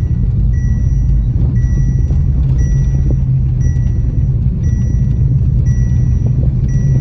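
The 6.2-litre LS3 V8 of an HSV Grange, heard from inside the cabin, pulling steadily at light throttle at under 2,000 rpm. Its 6L80E automatic gearbox upshifts from third to fourth. A thin high tone that breaks off about once a second runs alongside.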